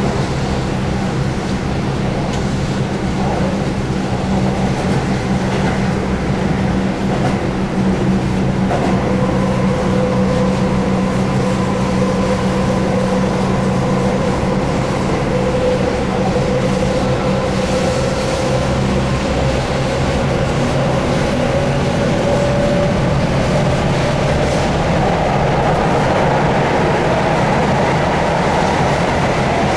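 Keihan 8000-series electric train running, heard on board: steady wheel-on-rail noise with the hum and whine of its DC traction motors. A motor tone rises slightly through the middle and fades near the end.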